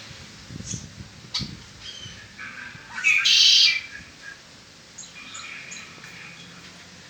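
Red-winged blackbird singing. A few short chip notes and soft thumps come first, then about three seconds in a loud, buzzy trill of the song lasting under a second, followed by quieter chirps.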